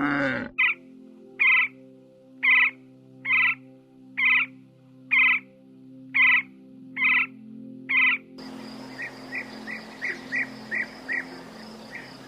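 An animal call repeated about once a second, nine short calls in a row, over a faint steady low hum. About eight seconds in, it gives way to a hiss with quick, high chirps.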